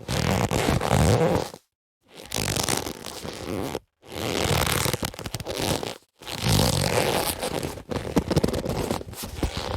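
Boxing gloves being handled, the gloves rubbing and crackling against each other in four separate takes of one to three seconds, with dead silence between them.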